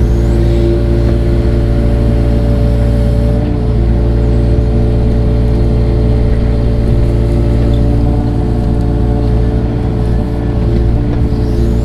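Tractor engine running steadily at working speed, a constant low drone with steady engine tones, as the machine is worked pulling stumps and roots.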